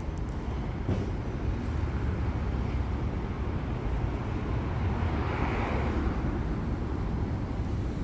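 City street traffic: a steady low rumble of engines and tyres, with one vehicle passing close by about five seconds in.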